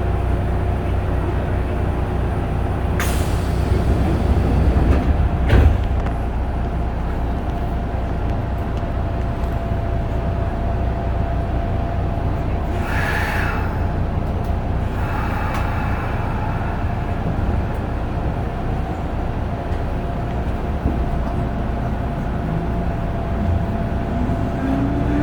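Kintetsu 8000 series electric train heard from inside the car: a steady low rumble with a constant thin whine, a couple of sharp knocks a few seconds in and a short hiss of air about halfway through. Near the end the traction motor whine starts climbing in pitch as the train gathers speed.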